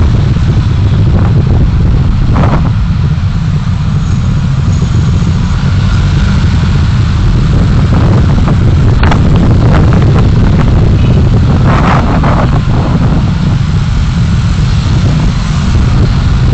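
Steady low rumble of road and wind noise from a car being driven, recorded by a dashcam, with a few brief louder swishes, likely from passing traffic.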